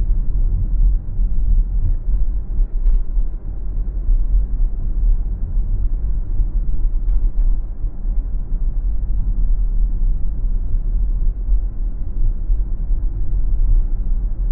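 Steady low rumble of a car driving, road and engine noise heard from inside the car by a dashcam. Two faint short ticks come about three and seven seconds in.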